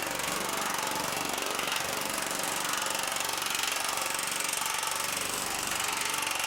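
TM Tech air-powered planishing hammer pounding steadily and rapidly through its large reverse dies on a sheet of half-hard 1100 aluminum, stretching the metal into a reverse curve.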